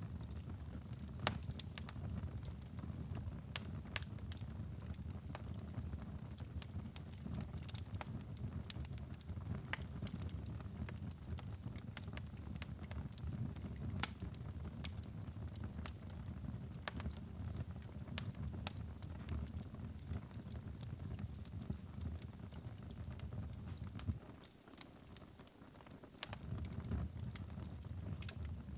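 Wood fire burning in a fireplace, with irregular sharp crackles and pops over a steady low rumble of the flames. The rumble drops away briefly near the end.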